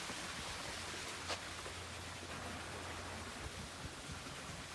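Steady even hiss of outdoor background noise with a faint low hum underneath, and a single sharp click about a second in.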